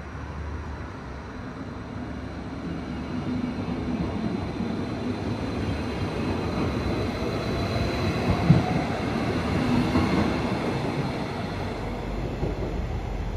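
Train running by on the track: its rumble builds over the first few seconds and stays strong, with one sharp knock a little past halfway.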